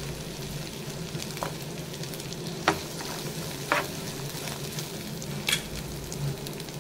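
Shallots, dried red chillies, garlic and fresh coconut pieces sizzling in oil in a non-stick pan, stirred with a steel spatula that taps the pan with a few sharp clicks.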